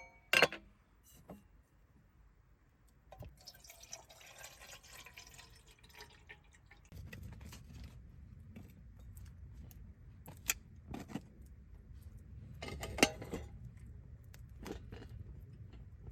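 Clinks and knocks of camp cookware, with a stretch of liquid pouring or dripping a few seconds in. From about seven seconds on there is a low steady background noise, with a few sharp clicks over it, the loudest near the end.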